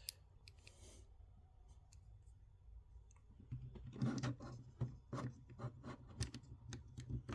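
Faint clicks and rubbing of plastic action-figure parts being handled and fitted together. The clicking picks up about halfway through and goes on as a quick, irregular run of small snaps and scrapes.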